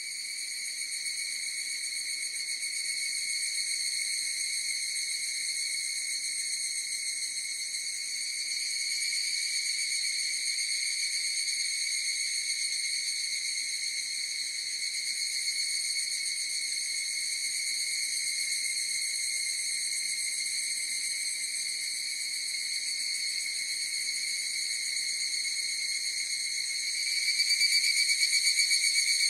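Chorus of higurashi evening cicadas (Tanna japonensis) calling: a continuous high, ringing trill of overlapping insect song, slightly louder near the end.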